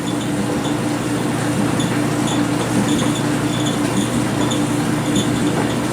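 Steady running of a clothes dryer and an old Whirlpool window air conditioner together: a constant hum with a steady low tone and light clicks repeating. The dryer masks the air conditioner, which is hard to hear.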